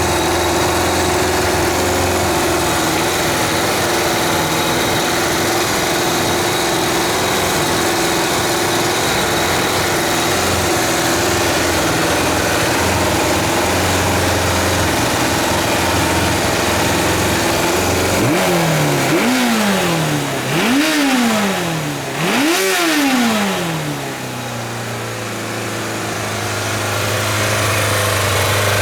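Kawasaki GPZ550's air-cooled inline-four engine idling steadily, then blipped three times in quick succession, each rev rising and falling, before dropping back to a lower idle that slowly picks up again.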